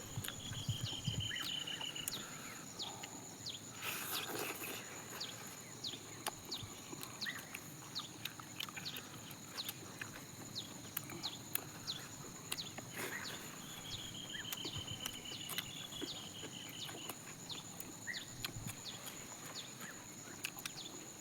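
Outdoor ambience: a bird trills twice, a run of rapid repeated high notes near the start and again past the middle, over a steady high-pitched drone, with scattered small clicks and taps throughout and a brief rustle about four seconds in.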